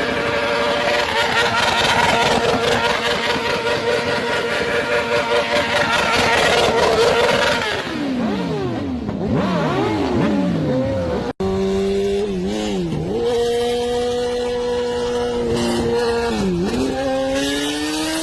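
Motor vehicle engine running loudly, its pitch falling away in several glides as the revs drop. After a sudden cut it settles into a steady note, with brief dips in revs and a rise near the end.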